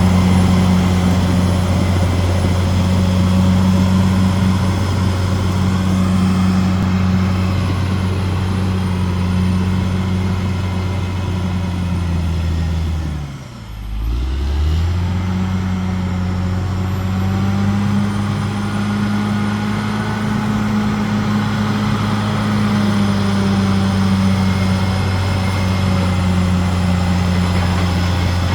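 Caterpillar D6R XL bulldozer's diesel engine running steadily under work. About halfway through, the engine speed drops sharply and quickly comes back up.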